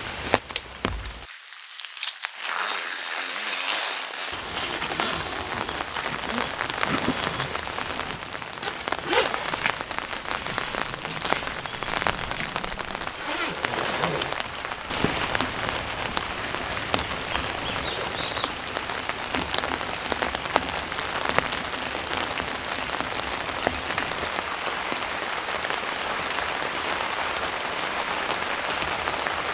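Heavy rain pouring steadily, with many sharp strikes of individual drops landing close by.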